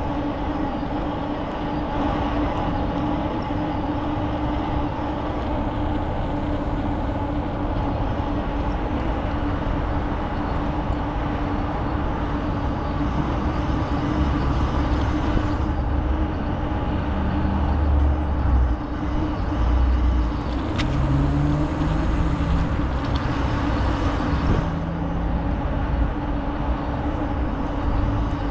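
Bicycle rolling along a park path: a steady hum from the spinning tyres, with a low rumble of wind on the microphone that gets stronger about halfway through.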